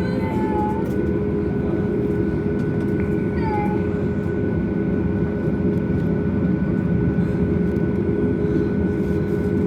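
Steady cabin noise inside a Boeing 737 MAX waiting before taxi: a constant low rush of air with a faint steady whine on top. Two short squeaky sounds that rise and fall break through, about half a second and three and a half seconds in.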